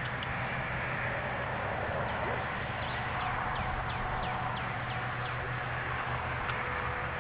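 A bird chirping repeatedly in short, high, falling notes, about three a second, starting a few seconds in and stopping near the end, over a steady low hum.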